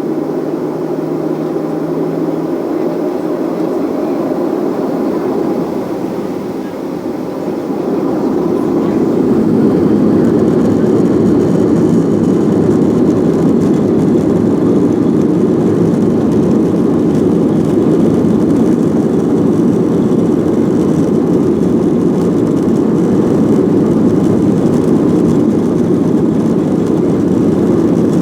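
Boeing jet airliner heard from inside the cabin: a steady engine and rolling rumble that grows louder about eight seconds in, then holds level.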